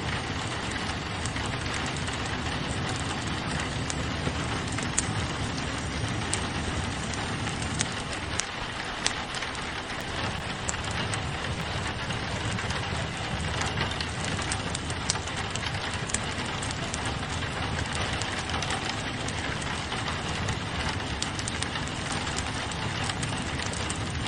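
Steady rain pattering on a window, mixed with a fireplace crackling, with scattered sharp pops and ticks throughout.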